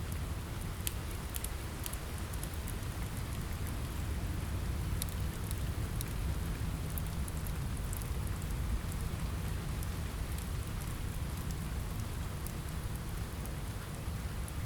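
Steady rain on a window mixed with a crackling fireplace: an even rushing hiss with a low rumble, dotted with scattered sharp crackles.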